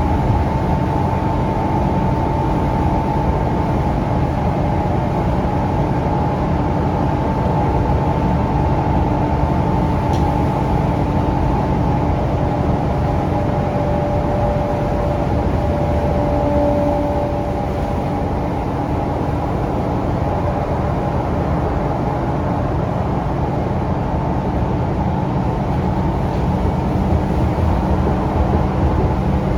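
Ride noise from on board a Scania K360UA articulated city bus under way, with its Scania DC9 diesel engine and ZF Ecolife automatic transmission running. A steady low rumble and road noise carry a few faint whining tones that change about halfway through.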